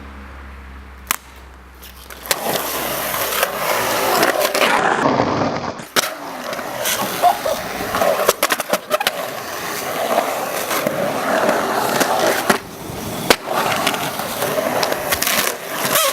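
Skateboard wheels rolling over hard ground, starting about two seconds in after a low hum, with several sharp clacks of the board along the way.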